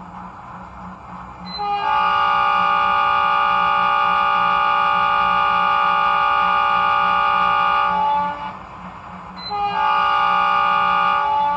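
Sampled Indian Railways WDM2/WDM3 Alco diesel locomotive horn from a Loksound 5 sound decoder, sounding one long chord blast of about six seconds, then a shorter blast of about two seconds. Underneath runs the idling 16-cylinder Alco 251C engine sound, all played through the model's small speaker.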